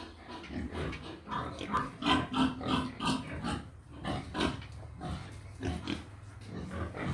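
Pigs grunting and squealing, a dense run of short irregular calls that is loudest about two to three and a half seconds in.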